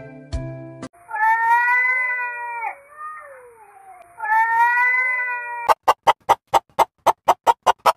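A cat meow, drawn out for about a second and a half and played twice a few seconds apart in identical form, as a dubbed sound effect. It follows the last notes of a jingle and is followed by a fast, even run of short clicks, about five or six a second.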